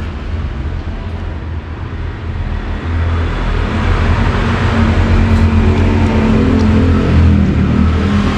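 A motor vehicle engine running close by, a steady low rumble that grows louder about three seconds in.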